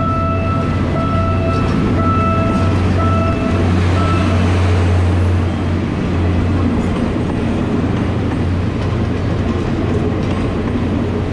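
Philippine National Railways diesel commuter train at a station: its horn tone breaks off in short pieces over the first few seconds, over the steady low rumble and noise of the train running and rolling on the rails.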